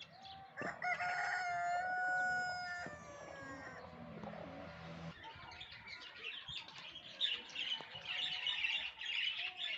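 A rooster crows once, one long call of about three seconds. About six seconds in, a chorus of many small birds chirping takes over.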